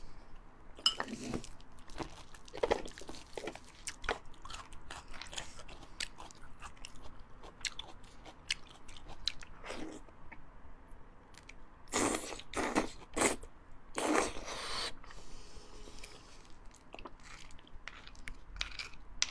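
Close-miked chewing and biting of fatty beef bone marrow: many short wet smacks and clicks, with a few louder bursts about twelve and fourteen seconds in.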